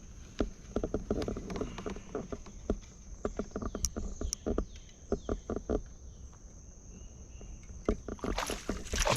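Irregular clicks and knocks, several a second, as a hooked bass is fought from a kayak, then a loud burst of splashing about eight and a half seconds in.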